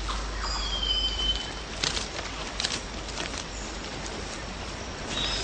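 Rainforest ambience: a steady hiss with scattered sharp clicks and crackles, and a bird's clear whistled note, held and then dropping away, about half a second in.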